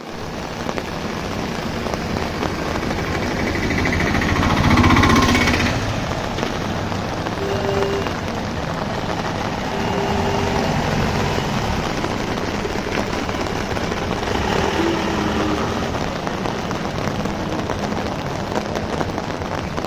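Heavy rain falling steadily on an umbrella and the ground around it, with a louder swell and a low hum about five seconds in.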